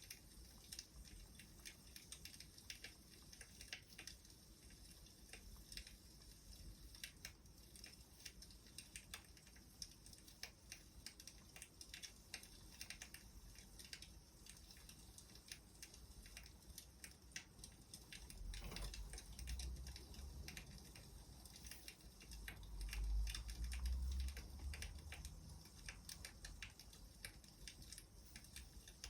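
Firewood fire crackling faintly, with irregular small sharp pops and snaps. A low rumble swells up about two-thirds of the way in and again, louder, a few seconds later.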